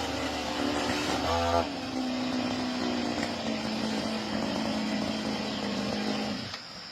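Lawn mower engine running steadily under load, with a brief change in pitch about a second and a half in. It stops abruptly about six and a half seconds in, leaving a steady high insect chirring.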